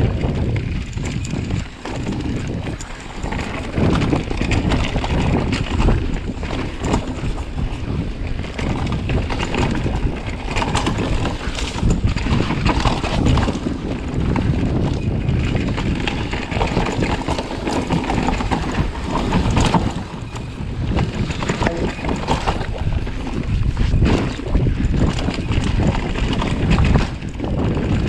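Downhill mountain bike rolling over rough trail, with wind buffeting the microphone. The tyres rumble steadily and the bike rattles and knocks over bumps throughout.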